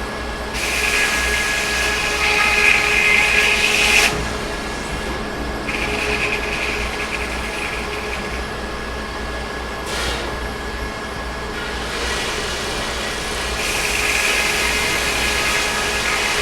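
Sawmill running steadily, with the saw cutting into pine log in three spells of a few seconds each, a louder hissing rasp over the machine's hum.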